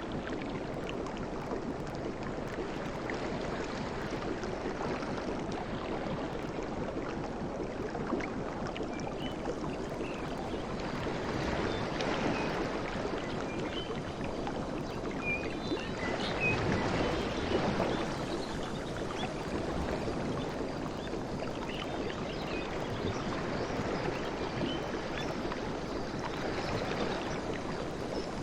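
Sea waves washing in, a steady wash that swells twice, about twelve and seventeen seconds in, with fizzing foam on top.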